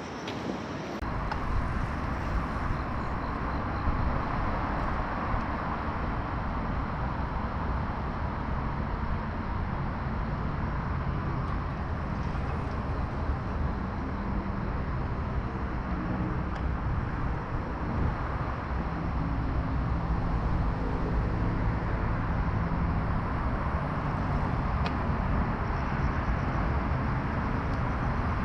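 Steady rumble of city road traffic, a continuous wash of tyre and engine noise with a strong low rumble. It swells about a second in, then holds.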